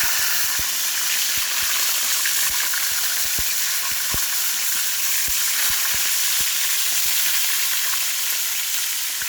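Lapu-lapu (grouper) and talakitok (trevally) frying in hot oil: a steady sizzle with scattered sharp pops of spattering oil.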